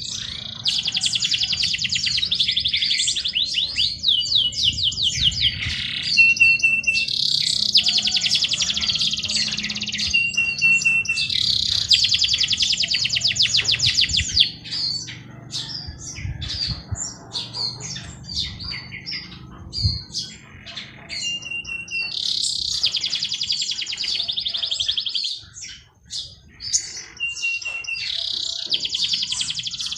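A songbird singing long, very fast trilled phrases, each lasting two to three seconds and coming five times, with short, thin, steady whistled notes between them and scattered chirps throughout.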